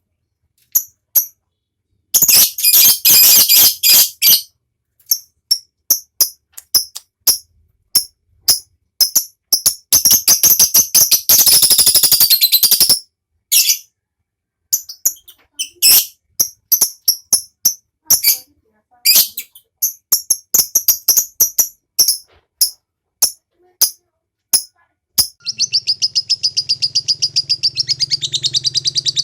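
Lovebird calling: sharp high chirps broken up by long, very rapid rattling trills (the 'ngekek' song), three long bursts, the last starting about 25 seconds in.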